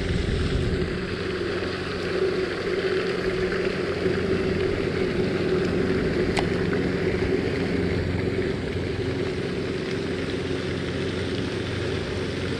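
Steady motor hum, even and unbroken, with one short click about six seconds in.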